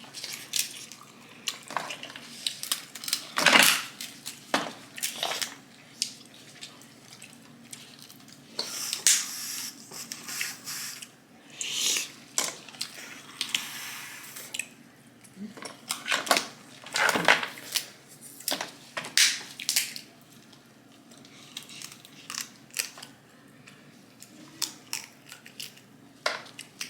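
Snow crab leg shells being cracked and broken open by hand: irregular sharp cracks and crunches, a few of them loud, mixed with clinks and brief rustling hiss.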